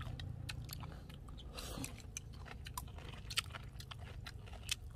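A person chewing a mouthful of fried fish and rice close to the microphone: irregular small wet clicks and crunches, with two sharper crunches in the second half.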